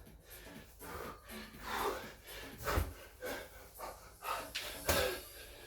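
A man breathing hard and gasping between reps of a strenuous bodyweight exercise, with a couple of dull thumps from his body or gear hitting the floor.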